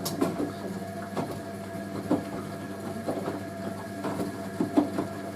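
Hoover A3060 Electronic 1100 washing machine in its gentle wash action: the motor turning the drum gives a steady hum, with irregular knocks and swishes as the wet load tumbles.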